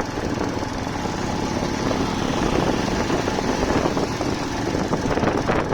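Motorcycle running at road speed, its engine mixed with a steady rush of wind over the microphone.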